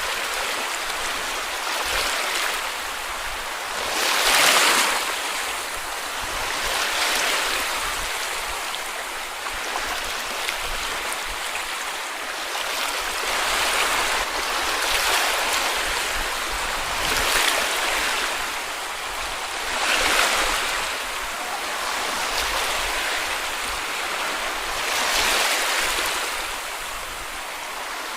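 Small sea waves washing onto a beach, a steady hiss of surf that swells every few seconds as each wave breaks and runs up the sand.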